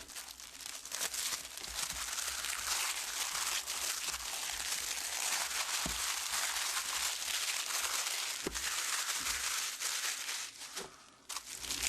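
Thin cellophane wrapper crinkling steadily as a brick of firecrackers is handled, with a few light knocks.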